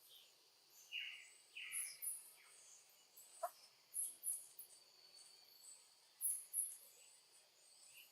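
Faint, repeated high-pitched chirps with a steady high insect whine underneath, a few falling calls about one and two seconds in and a single sharp click near the middle.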